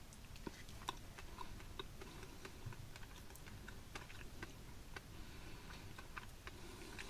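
A person chewing a bite of lemon poppy seed cake close to the microphone: faint, irregular small clicks and crunches.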